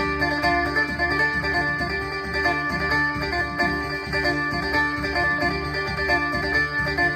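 Amplified phin, the Isan Thai plucked lute, played through a Boss amplifier: a quick plucked melody of repeated notes over a steady low pulse.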